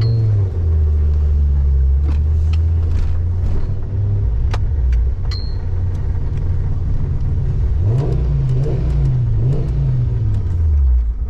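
Car engine running at a steady low note. About eight seconds in, it revs up and down a few times, with some sharp clicks midway.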